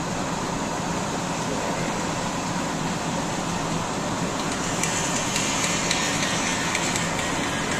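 Snowblower engine running steadily under heavy load, a constant drone that doesn't sound healthy and sounds like it's working way hard; a higher hiss joins it about five seconds in.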